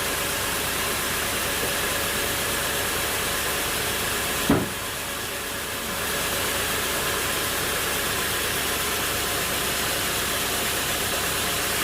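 A machine running steadily with a constant noisy drone, with one sharp knock about four and a half seconds in. After the knock the noise dips briefly and then comes back to its steady level.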